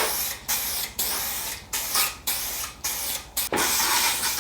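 Primer being sprayed onto bare-metal spots of a car body, hissing in about seven short bursts with brief pauses between them, as each spot is hit.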